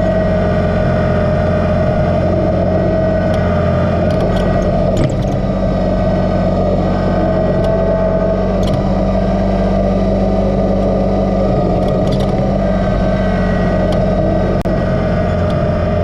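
Kubota BX2380 sub-compact tractor's small three-cylinder diesel engine running steadily under work, with a steady whine over the engine note, which shifts slightly about five seconds in.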